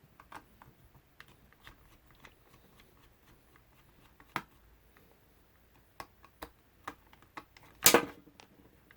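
Small clicks and ticks of a precision screwdriver working screws out of a drone's plastic airframe, with a louder clatter about eight seconds in.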